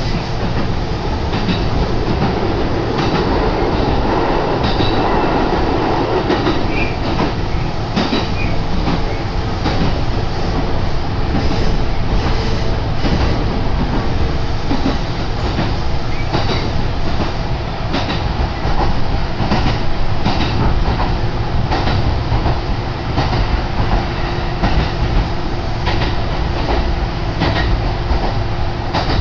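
Kintetsu Yunoyama Line train running between stations, heard from inside the car: a steady rumble of wheels on rail with frequent irregular clicks over the rail joints.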